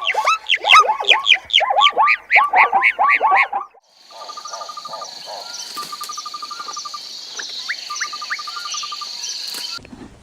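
Rapid, repeated high chirping calls, about four a second, until a little under four seconds in. Then a steady high insect-like drone with short rattling trills recurring every second or so, which stops abruptly near the end.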